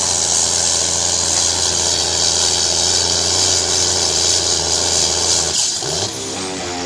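Pulling tractor's engine running steadily at an even pitch. It cuts off about five and a half seconds in, and electric guitar music starts.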